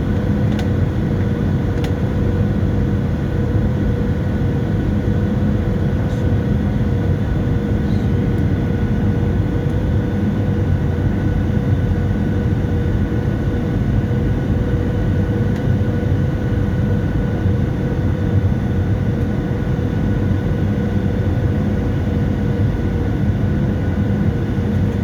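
Steady cabin noise inside a Boeing 737-700: its CFM56-7B jet engines and the airflow make a constant rush with a steady, multi-toned hum. A couple of faint clicks come in the first few seconds.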